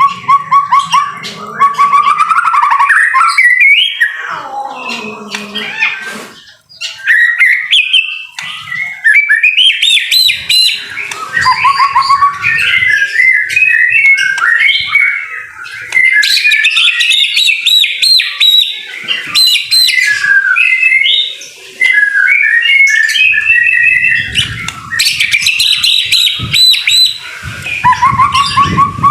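White-rumped shama (murai batu) singing loudly and nearly without pause: a fast, varied stream of whistled phrases and rapid trills, with a short break about six seconds in.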